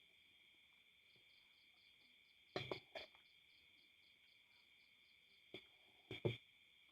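Insects chirring steadily, a high continuous buzz with a faster pulsing note above it. A few short knocks or clatters stand out: a pair about two and a half seconds in, and three more in the last one and a half seconds.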